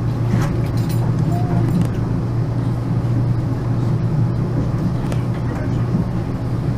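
A passenger train running, heard from inside the carriage: a steady low hum with faint clicks and rattles.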